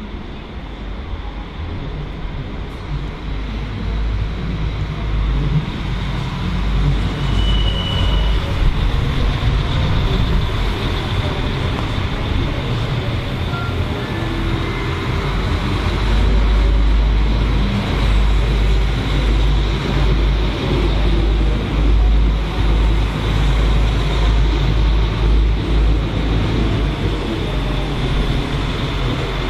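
Train moving along the platform, a loud low rumble that builds over the first several seconds and then holds steady, with a brief high squeal about seven seconds in.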